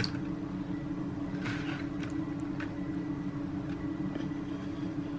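Steady low background hum with a few faint soft rustles about a second and a half in and again just after two and a half seconds.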